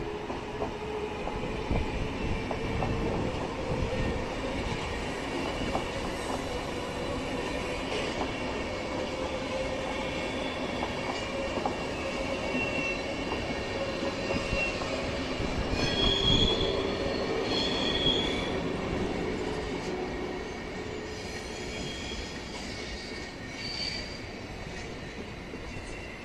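SBB passenger coaches rolling slowly past through the station, wheels squealing steadily on the curved track with a low rumble and occasional clicks. Two sharp high squeals stand out a little past the middle, the loudest moment.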